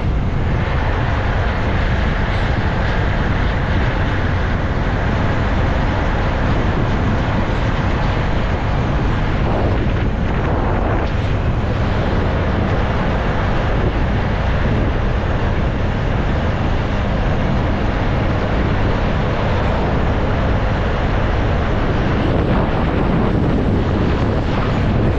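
Steady wind rushing over the microphone together with the running noise of a moving vehicle, with no clear changes.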